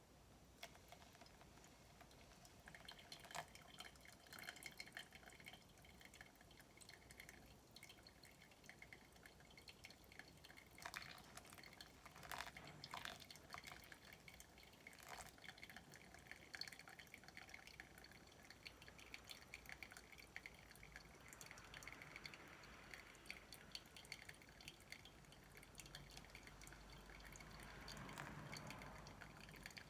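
Coffee being brewed by hand: faint, scattered drips of coffee falling into the vessel below the filter, with a soft trickle swelling twice in the second half.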